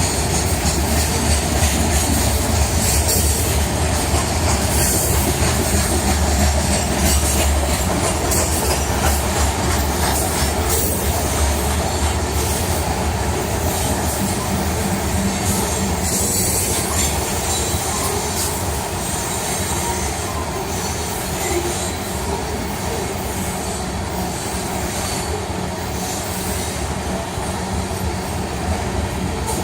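Freight train cars rolling past at steady speed: a continuous deep rumble with the rattle and hiss of steel wheels on the rails.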